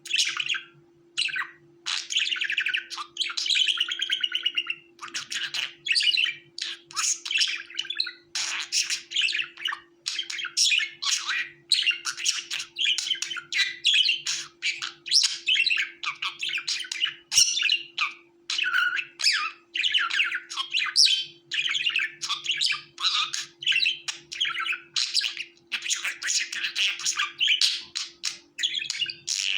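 Budgerigars chirping and chattering in quick, continuous bursts, with a faint steady hum underneath.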